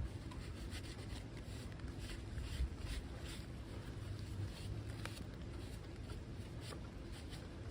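Hand cleaning of a motorcycle oil pan of dirt and oil: irregular soft rubbing and scraping strokes, about one or two a second, over a low steady rumble.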